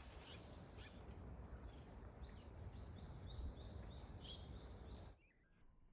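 Faint outdoor background noise with a steady low rumble, and a bird chirping in a quick run of short, high notes about two to four seconds in. The background noise drops away abruptly about five seconds in.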